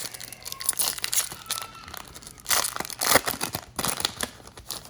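Wrapper of a 2010 Bowman baseball card pack being torn open and crinkled by hand, with irregular crackles and a louder burst of tearing and crumpling near the middle.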